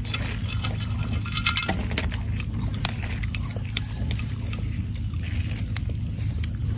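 Close-miked chewing with small crunchy clicks, densest about one and a half seconds in, then light snaps and rustles of fresh leafy greens being picked off their stems, over a steady low background noise.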